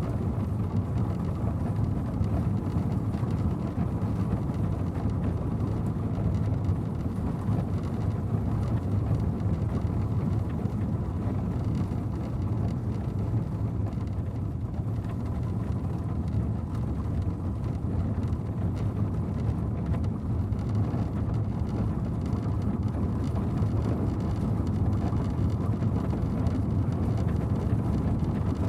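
Four-horse stagecoach on the move: a steady, low, dense rumble of carriage wheels and hooves with no pauses.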